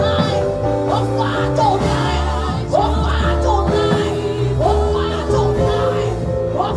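Worship music: held chords over a steady bass, with voices singing.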